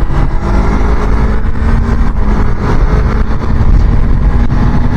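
Suzuki Inazuma GW250's 250cc parallel-twin engine running steadily on the move, with low wind rumble on the microphone; its note rises a little about three seconds in.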